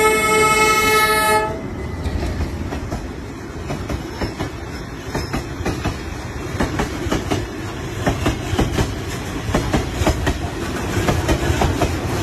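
A train horn holds one steady chord and cuts off about a second and a half in. Then the train rolls on with a low rumble and rapid clicking of wheels over rail joints, the clicks coming thicker in the second half.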